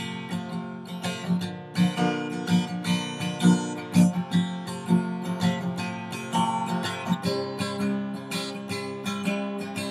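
Acoustic guitar strumming in a steady rhythm, an instrumental passage between sung lines of a song.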